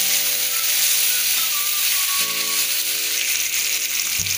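Chopped tomato and green chillies sizzling steadily as they fry in hot oil in a pan, with soft background music underneath.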